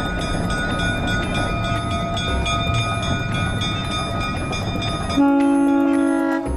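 A train running with a steady rumble, then one horn blast of a little over a second near the end.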